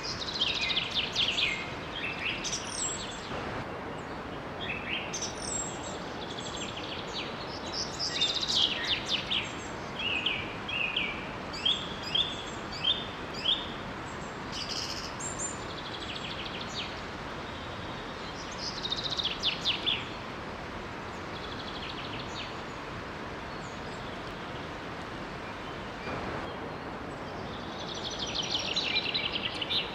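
Birds singing and chirping in bursts of quick high phrases over the steady rush of water from a small waterfall. The birds fall quiet for several seconds past the middle and start again near the end.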